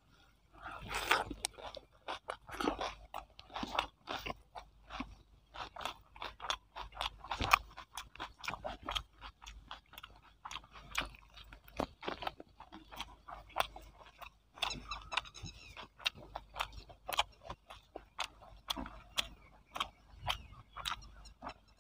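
A man chewing and crunching mouthfuls of chicken biryani eaten by hand, with irregular wet smacks and clicks of the mouth several times a second.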